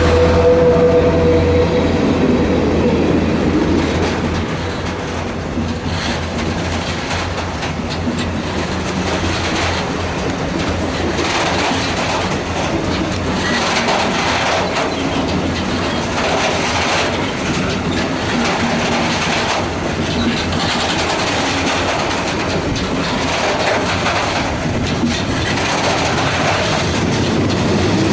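Ore train passing close by. An engine drone fades in the first couple of seconds, then a long string of ore wagons rolls past with a steady clickety-clack of wheels over rail joints.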